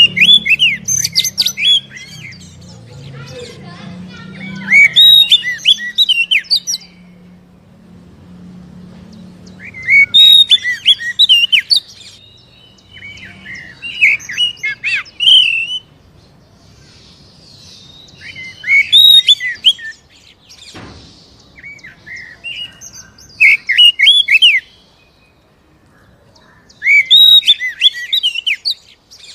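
Oriental magpie-robin (kacer) singing: loud bursts of rapid, varied whistles and chirps, a new phrase every few seconds with short pauses between. It is the kind of vigorous full song used as a lure to prompt caged magpie-robins to sing.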